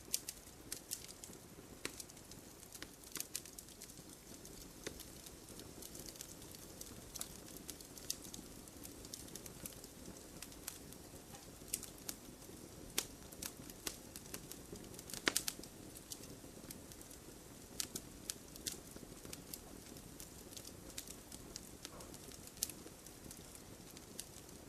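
Wood fire crackling in a fireplace: irregular sharp pops and snaps over a steady low hiss of burning logs, with a loud cluster of pops about fifteen seconds in.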